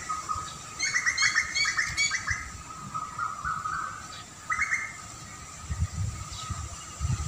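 Wild birds chirping: a quick run of repeated chirps about a second in and a shorter burst midway, over a steady, wavering call in the background, with a low rumble near the end.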